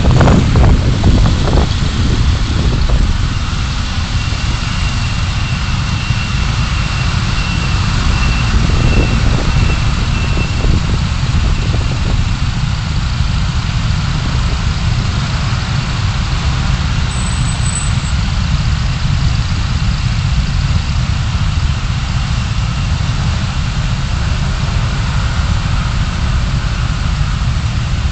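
Car engine and road noise picked up by a dashcam: a steady low rumble.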